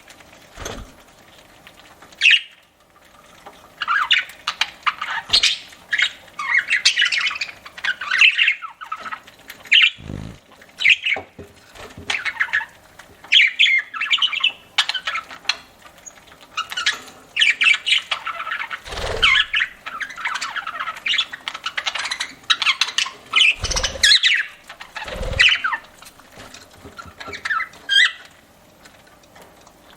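Budgerigars chirping and squawking in quick, busy bursts of chatter, with a few short low knocks.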